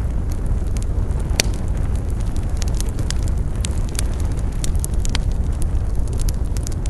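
Campfire burning: a steady low rumble of flame with irregular crackles and pops from the burning wood, one sharper snap about a second and a half in.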